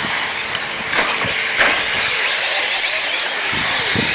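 Radio-controlled trucks racing on a track: a steady high hiss of motors and tyres, with a few sharp clicks and knocks.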